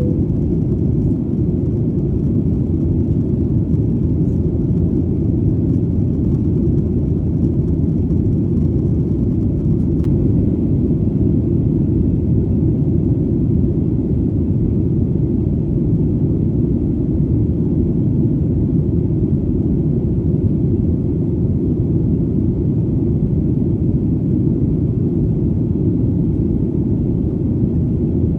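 Airplane in flight: a steady, deep rumble of engine and airflow that holds the same level and pitch without a break.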